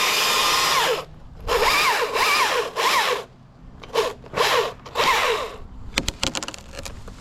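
Chainsaw cutting at full speed, stopping about a second in, then run in several short bursts with the pitch wavering. A run of sharp cracks and snaps comes near the end.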